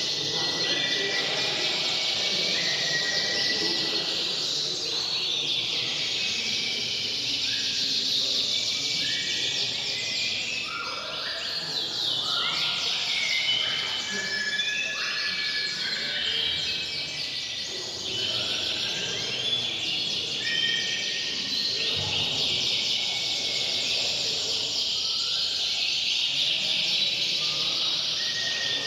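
Many domestic canaries singing at once, a dense, unbroken chorus of overlapping trills, chirps and short rising whistles.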